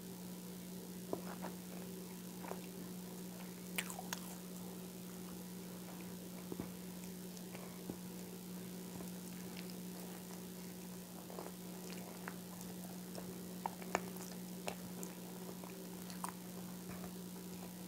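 Close-miked chewing of a soft mouthful of banana, with scattered small mouth clicks, over a steady low hum.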